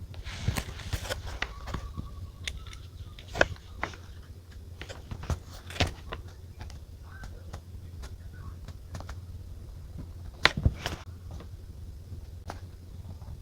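Journaling at a desk: scattered light taps, clicks and short rustles of paper and stationery being handled, the sharpest clicks about three and a half, six and ten and a half seconds in, over a low steady hum.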